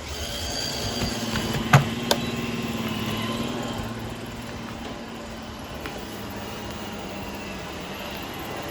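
Robot vacuums running, a steady motor hum with a held low tone, and two sharp clicks about two seconds in.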